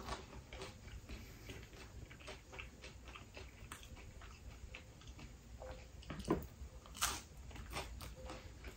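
A person chewing and biting a slice of spinach and cheese pizza, close to the microphone: soft mouth clicks in quick succession, with two sharper sounds about six and seven seconds in.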